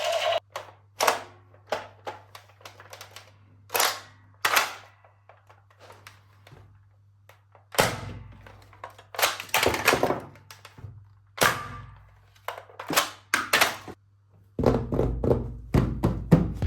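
Irregular sharp clicks and knocks of hard plastic, some single and some in quick clusters, from toy guns and their parts being handled. A faint steady low hum runs underneath.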